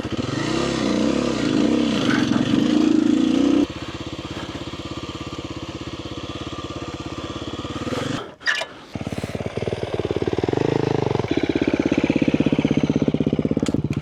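Kawasaki KLX300R dirt bike's single-cylinder four-stroke engine running: unevenly revved for the first few seconds, then dropping suddenly to a steadier, quieter running. It cuts out briefly about eight seconds in, then picks up again and runs steadily.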